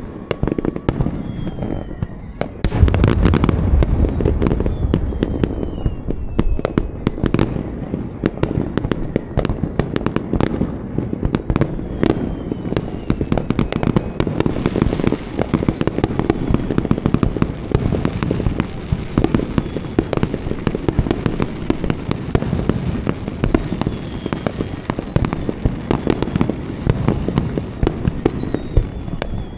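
Fireworks display: a dense, unbroken barrage of shell bursts and crackling, with a heavy low boom about three seconds in and several short falling whistles.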